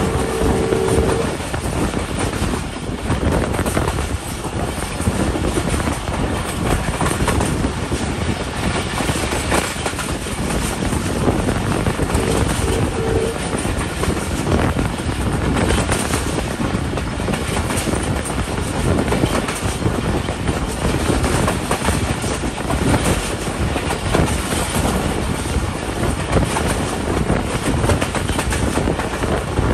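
Passenger train running at speed, heard from beside an open coach window: steady rumble and clickety-clack of the wheels on the rails with rushing air. A short two-tone horn blast sounds about twelve seconds in.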